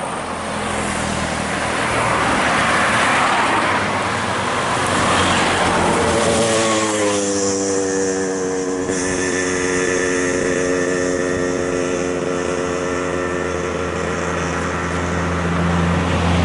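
A heavy road vehicle passes close by with a rush of engine and tyre noise. About seven seconds in, its engine note slides down in pitch and then holds, and a low steady engine hum rises near the end.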